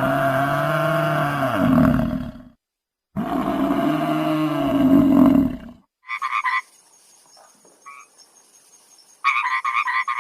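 Two long, low animal calls that bend up and down in pitch, each about two and a half seconds long. Then, about six seconds in, a frog's rapid pulsed croaking comes in short runs, starting again near the end.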